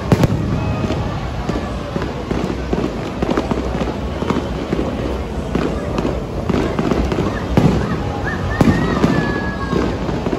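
Aerial fireworks bursting in a rapid, continuous string of bangs and crackles, with the loudest bangs just after the start and about three-quarters of the way in.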